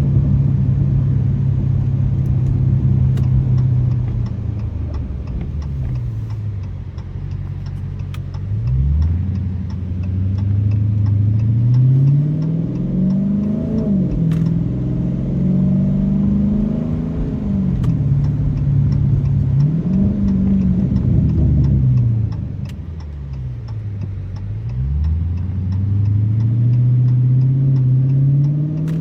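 Straight-piped 392 HEMI V8 of a 2023 Dodge Challenger Scat Pack pulling through the gears. The exhaust note climbs and then drops at each upshift, several times over. About two-thirds through it falls away as the car slows, then climbs again near the end.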